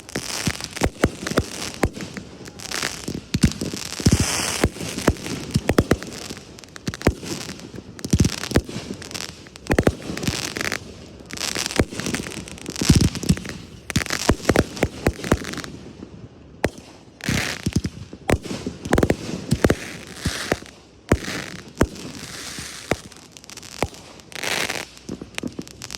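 Fireworks display going off: a rapid, irregular run of bangs with crackling between them.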